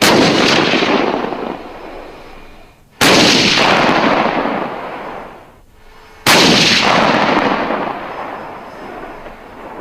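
Three single heavy gunshots about three seconds apart, each a sharp crack followed by a long echoing tail that slowly dies away.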